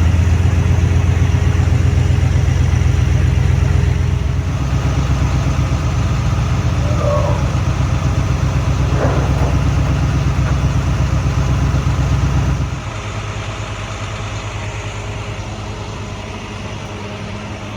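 Truck engine running steadily at idle, a low, even hum that drops noticeably in level about thirteen seconds in.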